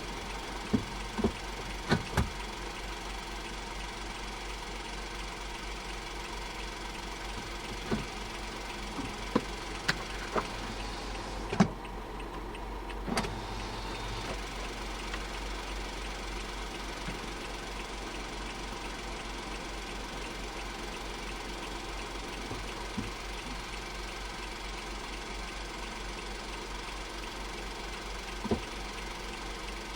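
Honda S660's small turbocharged three-cylinder engine running steadily at an unchanging speed, a constant low drone. About a dozen sharp clicks break in here and there, mostly in the first half, the loudest near the middle.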